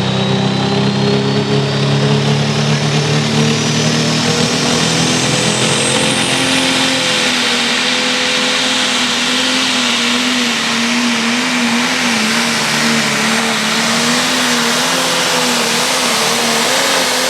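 A pulling machine's engine at full power hauling the sled down the track. Its pitch climbs in the first seconds and then holds high, wavering as the load pulls against it, over a thin high whine that rises steadily in pitch during the first several seconds.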